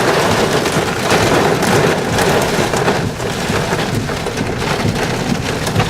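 Heavy rain falling steadily, a dense spatter of drops: the rain wrapping around a tornado from a supercell thunderstorm.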